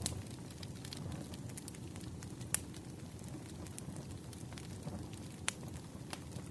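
Wood fire burning with a steady low rumble and scattered sharp crackles and pops, a few louder snaps standing out, one about two and a half seconds in and another near the end.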